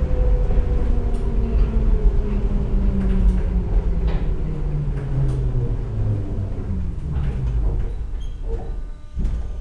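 Budapest Metro line 2 train slowing down: its motor whine falls steadily in pitch over the rumble of the wheels as it brakes, with a short burst of noise near the end as it comes to a stop.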